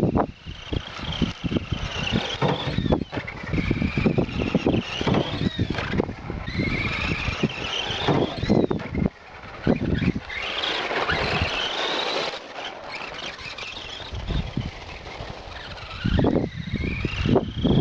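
Electric motor of a Losi 1/10-scale Desert Truck RC truck whining and rising in pitch each time it speeds up, over and over. Short knocks and rattles of the truck over the driveway come in between.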